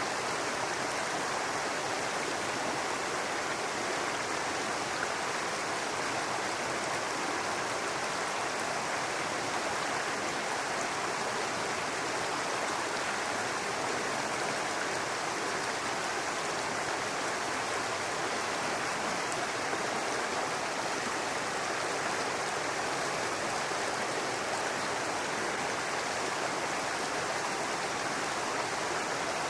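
Small brook babbling over rocks: a steady rush of flowing water.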